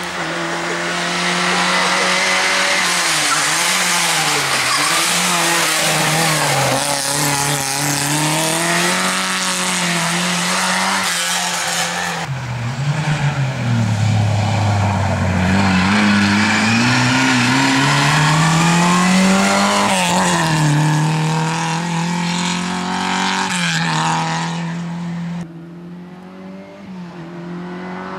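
Lada 2107 rally car's four-cylinder engine revving hard, its pitch climbing and falling again and again through gear changes and corners, over loud tyre and road noise. About 25 seconds in the driver backs off and the noise drops sharply.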